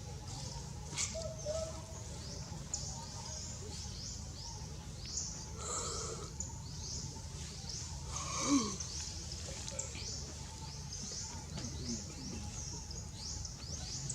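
Short, high-pitched falling chirps repeating several times a second over a low steady hum. A louder sound comes about six seconds in, and a louder call with a falling pitch about eight and a half seconds in.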